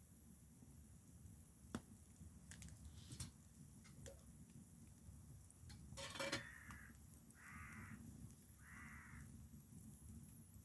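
A crow cawing faintly three times, starting about six seconds in, over low outdoor rumble, with a few scattered small clicks before.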